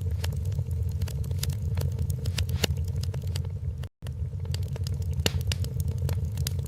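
Wood fire crackling, with irregular sharp pops and snaps over a steady low rumble; the sound cuts out for an instant about four seconds in.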